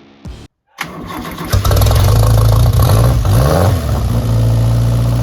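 Renault 4CV rally car's small four-cylinder engine starting and then running loud and steady, with one brief rev about three seconds in.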